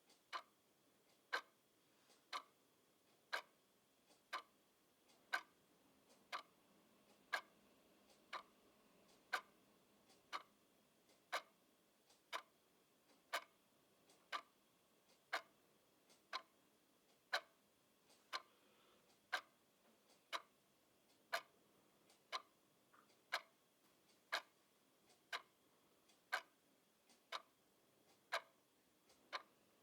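Clock ticking steadily at one tick a second, each tick short and sharp.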